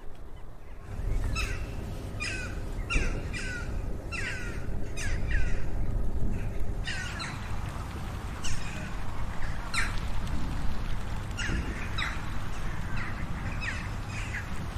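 Birds calling: a long run of short calls that fall in pitch, several a second, starting about a second in.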